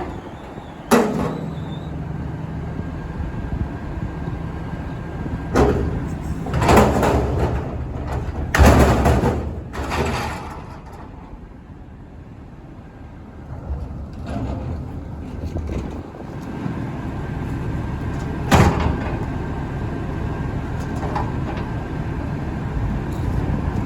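Garbage truck's diesel engine running, broken by several short, loud, hissing and clanking bursts about a second, six, seven, nine and eighteen seconds in.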